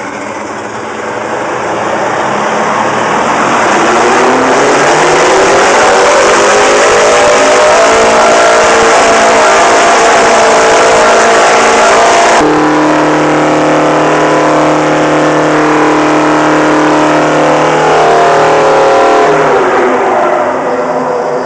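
Detroit Diesel two-stroke engine in runaway, with a jammed fuel control: it revs up over the first few seconds to a loud, sustained high-speed scream and stays there. The sound changes abruptly about twelve seconds in, and the revs drop away near the end.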